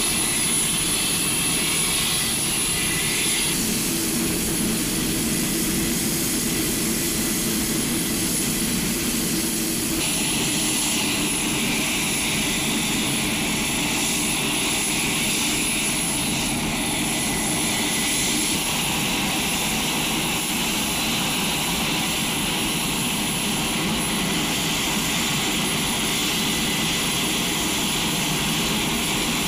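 Turboprop engines of an HC-130J running steadily: a continuous rush of engine and propeller noise with a steady high whine on top. The sound changes abruptly about three and a half seconds in and again about ten seconds in.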